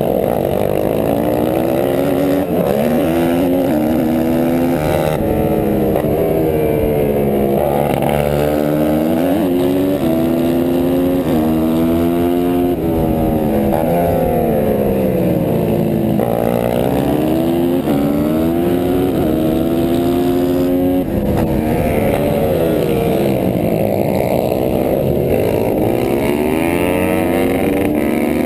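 Honda CRF150R pit bike's single-cylinder four-stroke engine running hard in a race, its pitch climbing and falling again and again as the throttle is opened and closed.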